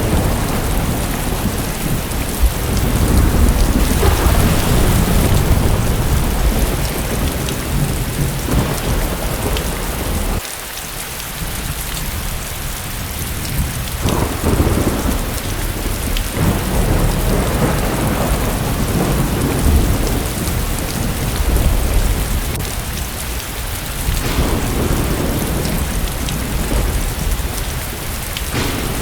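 Heavy first-of-the-season rain pouring steadily, with low rolling thunder that swells and fades several times and eases for a few seconds near the middle.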